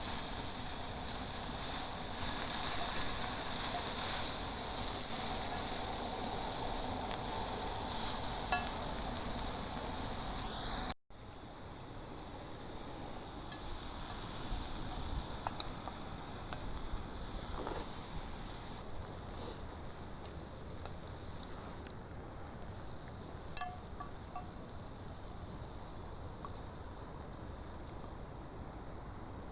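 Steak sizzling on a hot iron griddle over a campfire: a steady high hiss with small pops and crackles. It cuts off sharply about eleven seconds in, then resumes more quietly and dies down.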